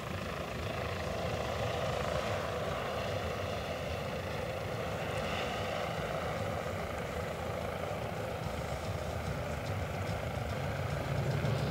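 Bell 407 helicopter's turbine engine and four-blade main rotor running steadily as it flies with a rescuer and victim slung beneath on a long line. The whine and rotor rumble grow slightly louder near the end.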